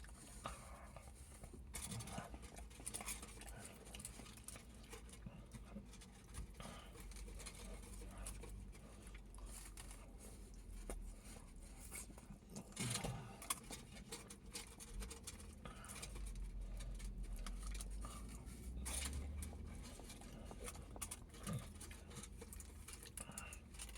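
A person eating a döner kebab close to the microphone: chewing, with many small crackles and clicks of the bread and its wrapping.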